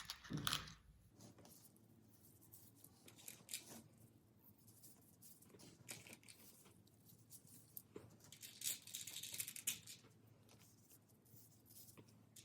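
Faint rustling and small clicks of craft materials being handled: plastic straw pieces and beads threaded onto pipe cleaners, with a denser scratchy stretch about nine seconds in.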